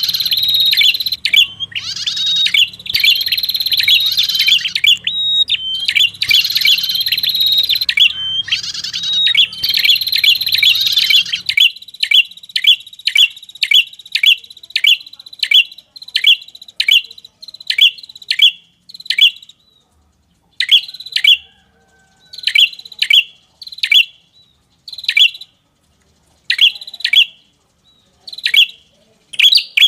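Bird-lure recording of prenjak kepala merah calls. For the first eleven or so seconds, a dense run of high, busy song sits over a low hum. Then it switches to sharp, falling chirps, several a second at first and later in spaced groups with short pauses between.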